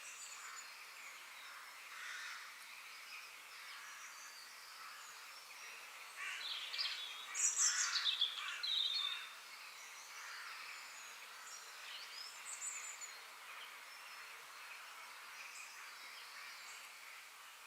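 Forest ambience: birds chirping and calling over a steady background hiss, with a louder flurry of quick chirps about six to nine seconds in.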